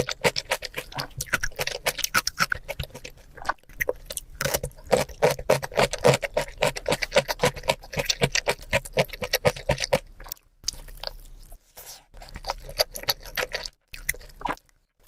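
Close-miked chewing and eating of rice and grilled chicken: rapid wet mouth clicks and crunches, several a second, thinning out after about ten seconds into sparser bites with short pauses.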